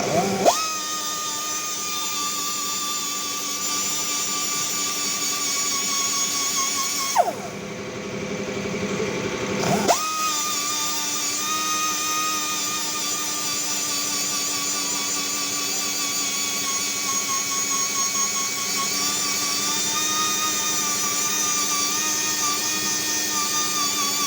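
A high-speed rotary power tool running with a steady high-pitched whine; about seven seconds in it is switched off and winds down, and about ten seconds in it starts again and spins back up.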